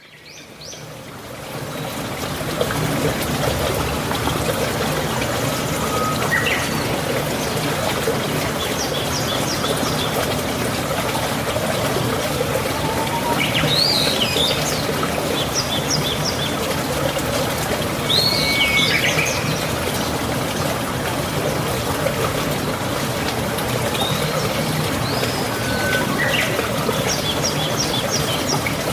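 Steady running water with birds calling over it: short chirps and bursts of high trills every few seconds. The water fades in over the first couple of seconds.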